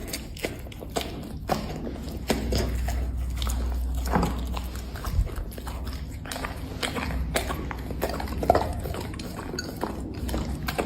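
Black Labrador chewing and crunching dry seafood snacks, with irregular sharp crunches and smacks.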